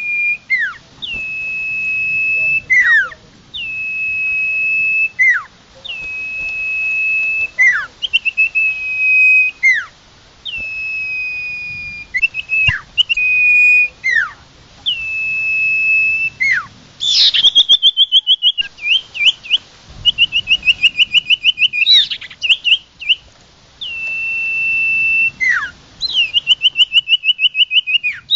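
A local Indonesian sirtu songbird singing continuously. Each phrase is a quick downward swoop followed by a long, level, high whistle, repeated about every two and a half seconds. Past the middle it switches to fast trills of rapidly repeated notes.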